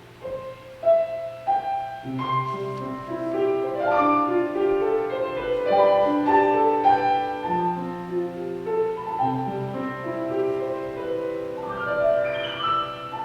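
Piano music: a few single notes in the first two seconds, then a fuller melody with chords.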